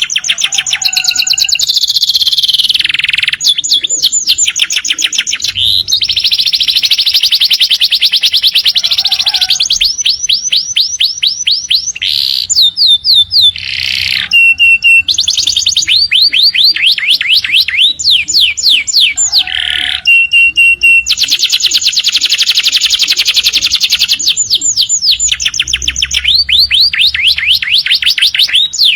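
Domestic canary singing a long, unbroken song of fast trills and rolls, broken twice by a short steady whistled note.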